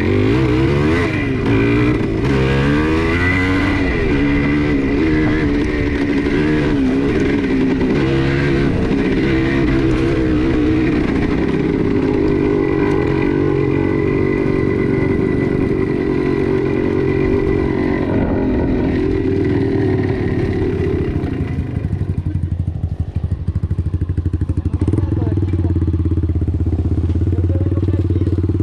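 Motorcycle engine running while being ridden, its pitch rising and falling repeatedly at first, then holding steady. About three-quarters of the way through it drops and wavers for a couple of seconds before steadying again at a lower pitch.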